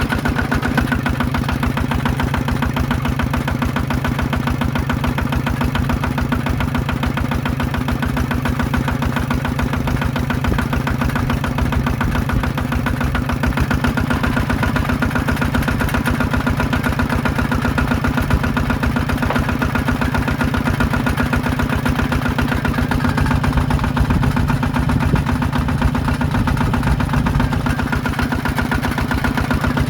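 Small diesel engine of a power tiller running steadily at one speed with a rapid, even firing beat.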